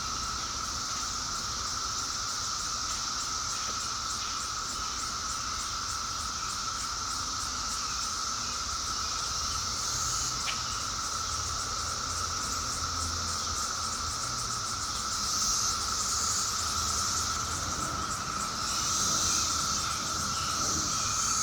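Steady outdoor chorus of insects: a continuous droning tone and a higher, rapidly pulsing trill. The trill swells briefly twice in the second half.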